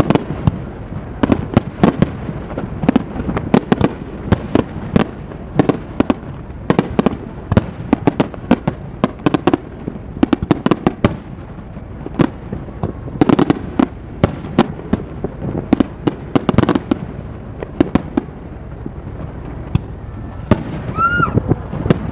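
Aerial fireworks display: a rapid, continuous barrage of shell bursts, several bangs a second coming in dense clusters over a steady rumble. A short whistle that rises and falls comes near the end.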